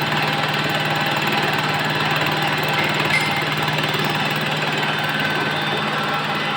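Vertical milling machine running steadily through a facing cut, a constant motor and spindle hum over dense machining noise, with one small click about three seconds in.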